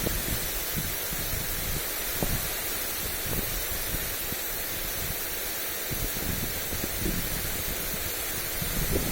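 Lawn sprinkler spraying water onto grass, a steady hiss, with wind buffeting the microphone in irregular low gusts that grow a little stronger near the end.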